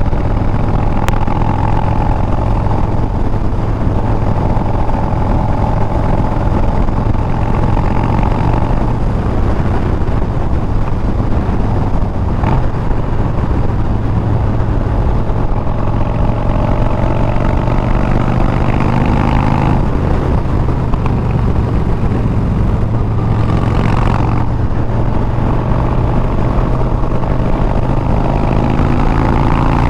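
Harley-Davidson Milwaukee-Eight 114 V-twin running through Bassani straight pipes while the motorcycle cruises at a steady speed, its engine note rising a little near the end.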